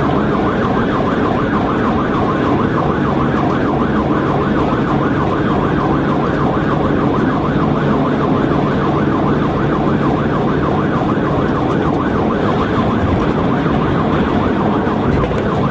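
Police car siren in a fast yelp, its pitch sweeping up and down several times a second, over the steady drone of engine and road noise at highway speed.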